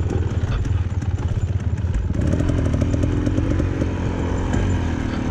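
Dirt bike engine running under way on a trail, with clattering from the rough ground. About two seconds in, its note becomes clearer and holds fairly steady.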